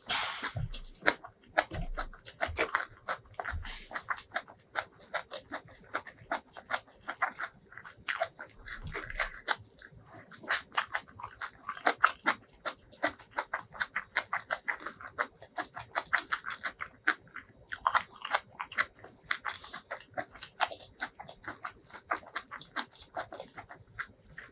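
Close-up chewing of a hand-fed mouthful of rice and curry: a steady, irregular run of small mouth clicks.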